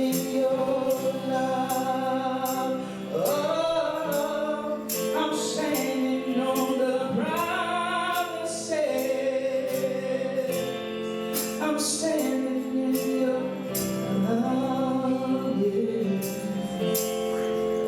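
Gospel worship song: singers with a choir-like sound over held chords, with a steady beat of sharp percussion strokes.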